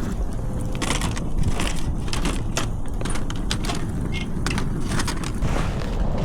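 Wind buffeting the microphone in a steady low rumble, with irregular clicks and crunches from handling and movement close by.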